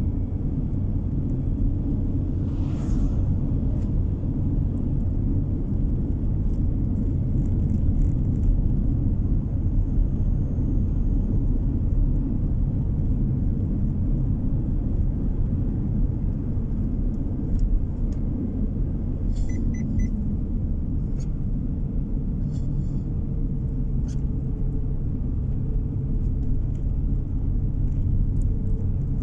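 Car driving on the road: a steady low rumble of road and engine noise, heard from inside the cabin.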